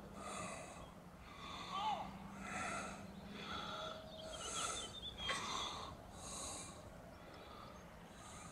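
Birds giving a series of short hoarse calls, roughly one a second, with a few faint higher chirps between them.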